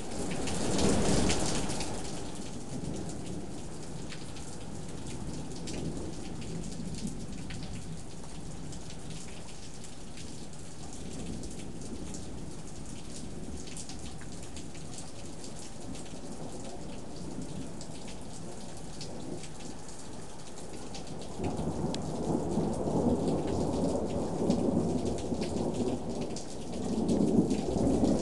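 Thunderstorm: steady rain falling, with rolling thunder. One rumble rises and fades in the first couple of seconds; a longer rumble builds about three-quarters of the way through and swells again near the end.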